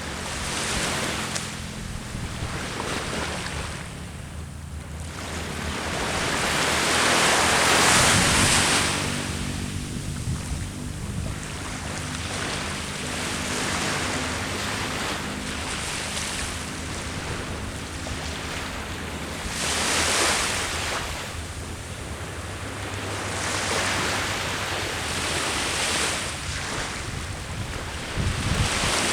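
Sea waves breaking and washing up the shore, swelling louder every few seconds, the biggest about eight seconds in, with wind rumbling on the microphone.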